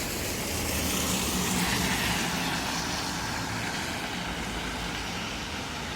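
A motor vehicle passing on the street: engine and tyre noise that swells over the first couple of seconds and then slowly fades.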